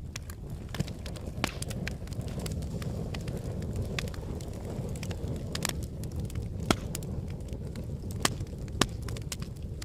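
Volcanic eruption with a continuous low rumble and frequent sharp, irregular cracks and snaps, the strongest a few seconds before the end.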